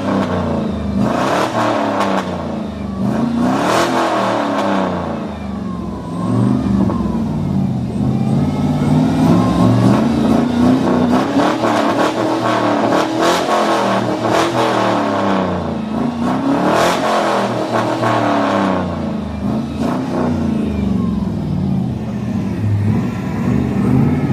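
Truck engine revved hard again and again, its pitch climbing and falling back about eight times, easing toward idle between revs.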